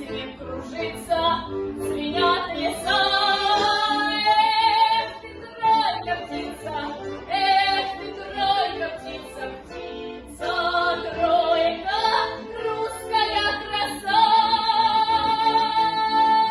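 A woman singing a Russian song in a trained, full voice over accordion accompaniment, holding two long high notes with vibrato, one about three seconds in and one near the end.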